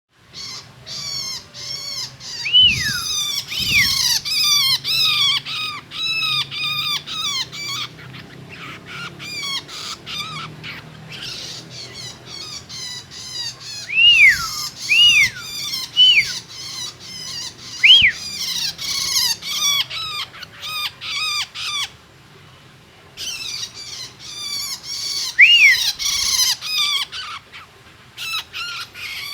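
Long-tailed shrike (cendet) calling: long runs of rapid, harsh chattering notes, with a few clear down-slurred whistles mixed in. The calling pauses briefly twice.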